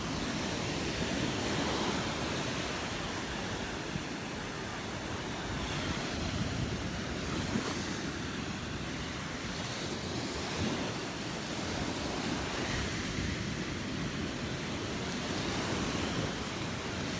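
Gulf of Mexico surf washing onto the beach: a steady hiss of small waves that swells and eases every few seconds, with some wind on the microphone.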